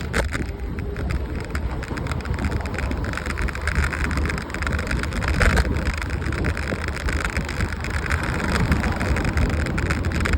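Car driving along, a steady low rumble of road and engine noise with an even hiss.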